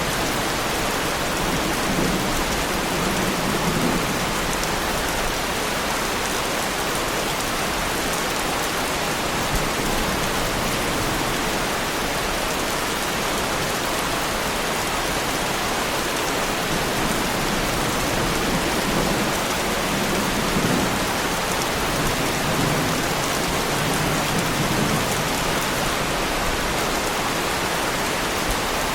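Heavy rain falling steadily on a car, an even, unbroken hiss, with low rumbles of distant thunder a couple of seconds in and again about two-thirds of the way through.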